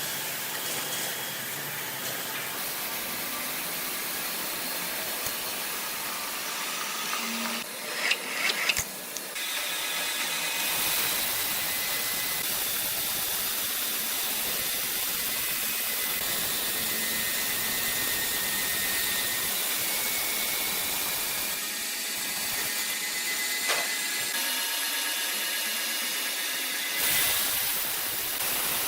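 Steady machinery noise, mostly a high hiss with a faint whine. A quick run of knocks comes about eight seconds in, and a single knock later.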